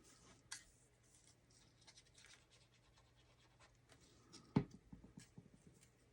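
Faint rustling and scraping of paper card stock being handled, with a small click about half a second in and one sharp knock about four and a half seconds in, followed by a few light ticks.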